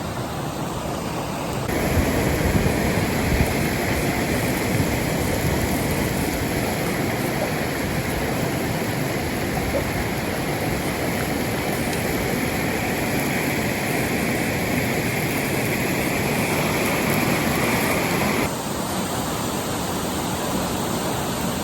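Steady rush of a waterfall, continuous falling water with no break. It gets louder about two seconds in and drops back down near the end.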